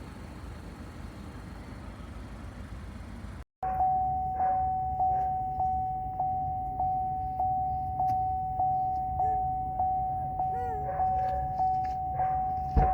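Steady car engine and cabin noise, then after a cut a car's warning chime dinging over and over, one clear tone struck and fading about every 0.6 seconds.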